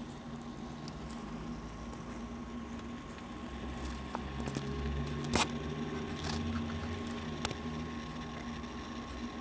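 Steady low rumble of aircraft jet engines at the airport, swelling slightly in the middle, with a constant hum and a couple of sharp clicks about halfway through.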